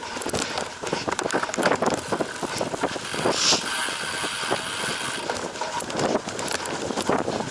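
Cyclocross bike ridden hard over rough off-road ground: the chain, frame and parts rattle in a dense run of clicks and knocks, with tyre noise and wind on the microphone. A brief hiss comes about three and a half seconds in.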